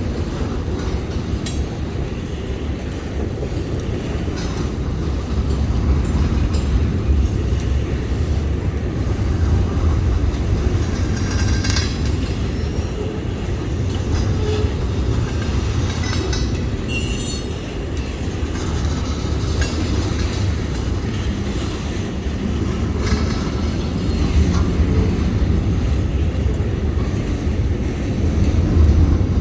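Freight train rolling past on the rails: a steady low rumble with scattered clicks and clanks of wheels over the rail joints.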